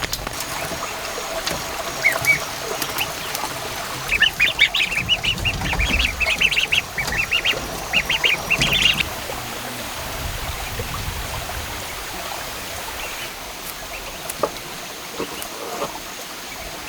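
Ducks calling in a flock, a quick burst of short, high calls a few seconds in that dies down after a few seconds, with a couple of single calls before it.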